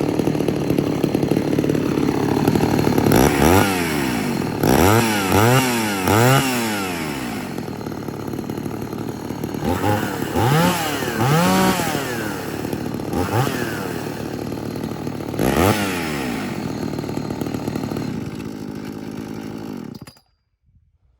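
Gas chainsaw engines idling and being revved up and down again and again, in quick blips that come in clusters, then settling back to idle. The sound stops abruptly near the end.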